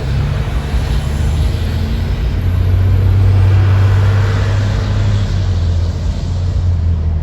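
Road traffic and running vehicle engines: a steady low drone that swells louder for a couple of seconds midway, as a vehicle comes closer or revs.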